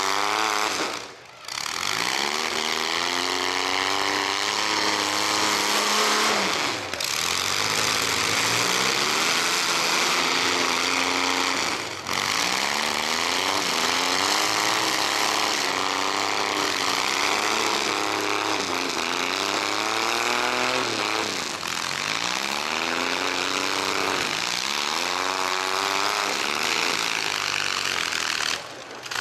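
Mini-truck engines in a demolition derby, loud and running hard throughout, revving up and down over and over, with a brief dip in level about a second in.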